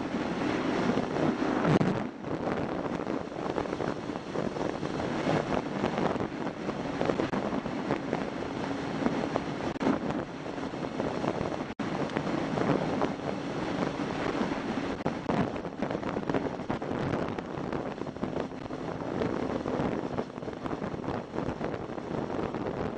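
Wind rushing over the microphone of a moving motorcycle, with the motorcycle's engine droning steadily underneath.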